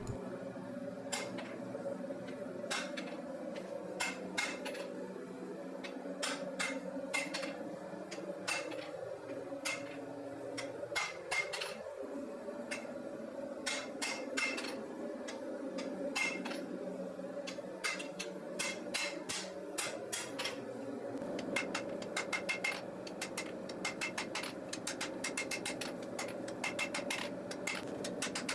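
Hand hammer forging a bar of 1/4-inch steel into a knife blade on an anvil: sharp blows at an uneven pace, coming fast and close together in the last several seconds, over a steady hum.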